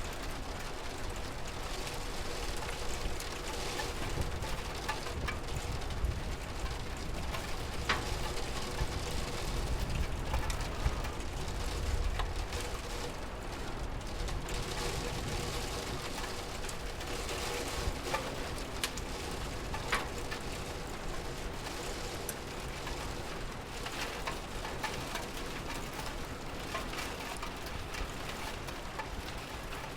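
Steady rain, an even wash with scattered sharp drip-like ticks. There is a low rumble that swells around ten seconds in.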